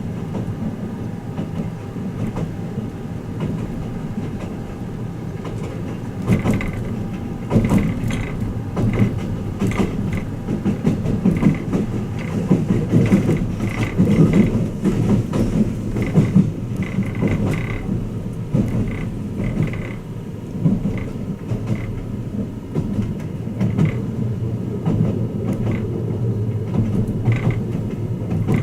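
Running noise inside a passenger car of the Twilight Express Mizukaze: a steady low rumble of the moving train, with wheels clicking and knocking over rail joints and short creaks and squeals from about six seconds in.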